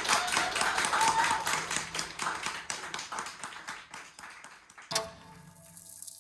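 Audience clapping at the end of a live set, thinning out and dying away over a few seconds. A single sharp knock comes about five seconds in.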